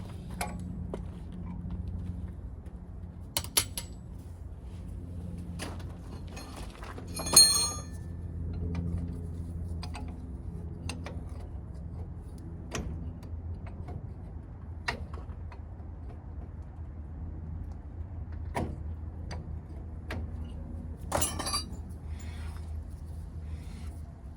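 Scattered metallic clicks and clinks of hand tools and parts being handled during axle work. The loudest is a ringing clink about seven seconds in, with another near the end, over a steady low hum.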